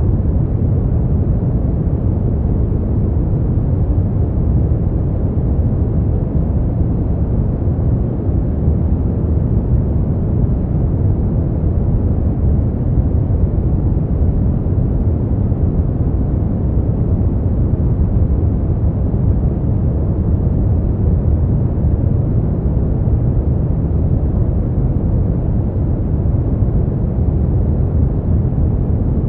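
Steady noise track for sleep and relaxation, played as 'white noise' but deep and rumbling rather than hissy, with little high end. It holds even and unchanging throughout.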